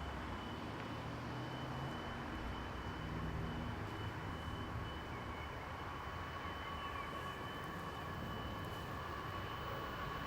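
Faint, steady low rumble of a distant diesel engine, with a thin steady high-pitched tone above it.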